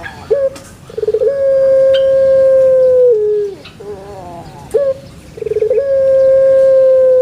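A dove cooing in full song: twice a quick stuttering start runs into a long, steady held note of about two seconds that drops away at the end, with shorter falling coos between the two phrases.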